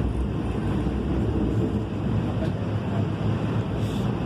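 Kinkisharyo P3010 light rail car in motion: a steady low rumble of running noise.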